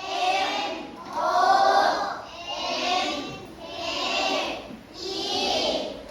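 A class of children chanting together in unison, drawing out about one syllable a second.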